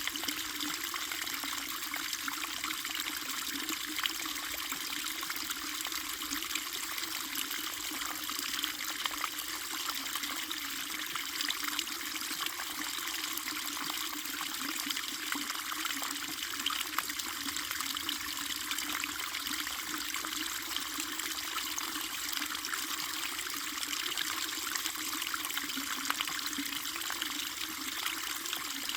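A small brook of running water trickling and splashing steadily, with small irregular splashes throughout.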